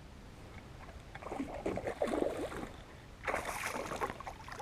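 Water splashing and sloshing around a kayak, in two bursts: an uneven run of splashes from about a second in, then a sharper splash about three seconds in.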